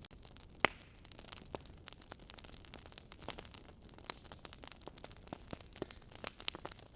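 Wood fire crackling in a fireplace: irregular sharp snaps and pops over a faint hiss, with one louder pop less than a second in.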